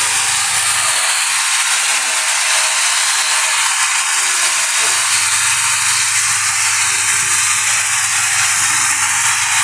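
Electric woodworking power tool running and cutting wood: a loud, steady hiss that goes on without a break.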